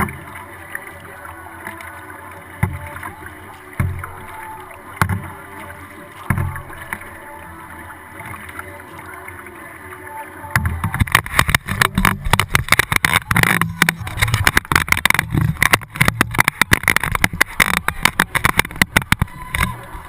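Kayak on the water, recorded from the hull. In the first half there is steady water hiss and a dull knock about once a second, paddle strokes against the boat. About halfway through, a loud, dense, irregular crackling clatter takes over and runs on.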